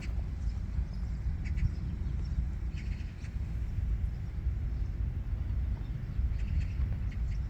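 Steady low rumble with small birds chirping briefly in short clusters every few seconds.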